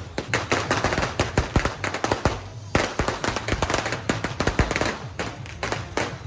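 A string of firecrackers going off in a rapid, irregular crackle of sharp bangs, with a brief lull about two and a half seconds in.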